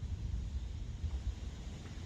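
Wind buffeting the microphone, an unsteady low rumble with a faint hiss.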